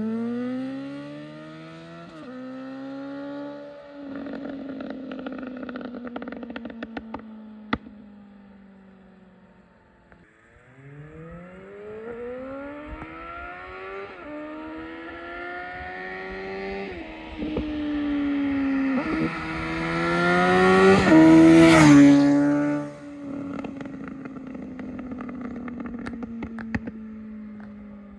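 2019 Suzuki GSX-S750 inline-four through a Yoshimura SQ11 exhaust with no dB killer and a decat pipe, revving hard up through the gears with quick upshifts, then shutting off and popping and crackling on the overrun as the revs fall. This happens twice; the second run is louder and peaks around 21 to 22 seconds in.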